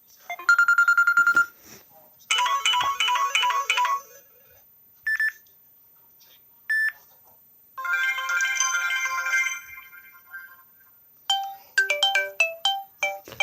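A run of Samsung Galaxy phone ringtones and alert tones played one after another with short gaps between them. First a fast pulsing tone, then a short melody, two single beeps, a chiming phrase, and a run of plucked notes near the end.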